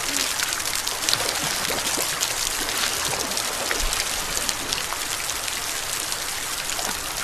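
Heavy rain falling: a steady hiss with many small drops pattering.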